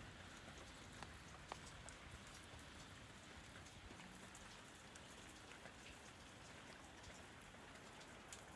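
Faint steady rain falling, with scattered individual drops ticking now and then.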